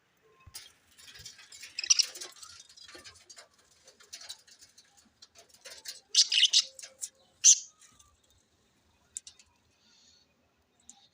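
Budgerigars chirping and chattering in short, irregular bursts of high-pitched calls, with the loudest calls a little past the middle and only a few scattered chirps near the end.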